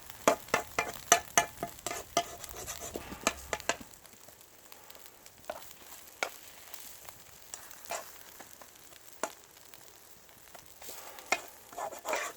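Egg and green-onion batter frying in oil in a frying pan over a wood fire, sizzling faintly, with a quick run of sharp clicks and taps in the first four seconds and scattered single clicks after that.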